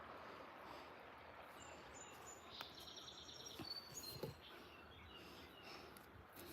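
Faint birds chirping, a few short high calls in the middle, over a quiet outdoor background with a few soft taps.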